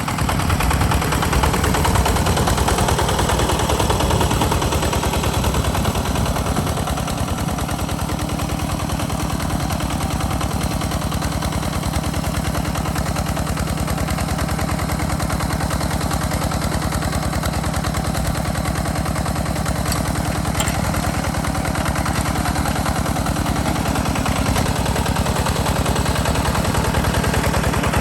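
Single-cylinder diesel engine of a walk-behind tractor running steadily under plowing load, with a fast, even chugging exhaust beat.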